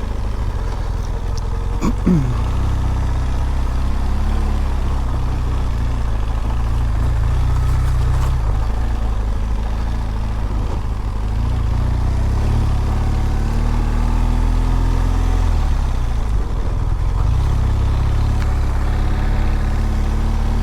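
BMW R1200GS boxer-twin engine running as the motorcycle is ridden slowly through mud, the engine note rising and falling with the throttle. There is a short sharp sound about two seconds in.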